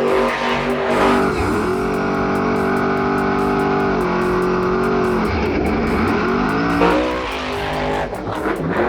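Monster truck's supercharged V8 engine running hard and revving, holding a high steady pitch, dropping about four seconds in and climbing again about six to seven seconds in. Background music plays along.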